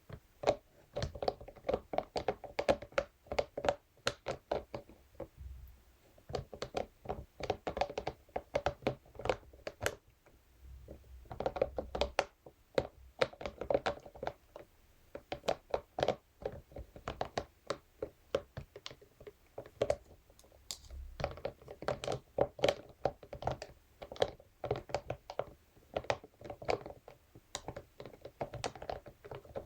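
Scalp massage brush tapping and scratching against a surface in quick runs of light taps and clicks, in bursts of several seconds with brief pauses between them.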